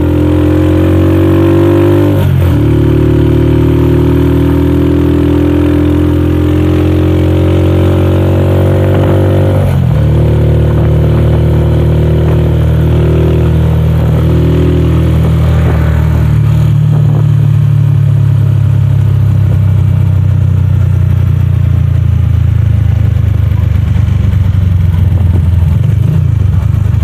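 Motorcycle engine of a tricycle heard from inside its sidecar, pulling away and climbing in pitch through the gears, with a drop in pitch at each shift about two and ten seconds in, then running steadily at cruising speed.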